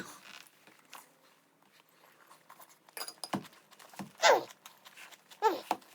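A man's sped-up, fast-forwarded voice: short high-pitched wordless vocal sounds that fall in pitch, three of them in the second half, with scattered faint clicks between them.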